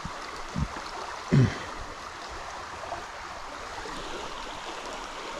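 Creek water flowing, a steady rush, with a brief low thump about a second and a half in and a fainter one just before it.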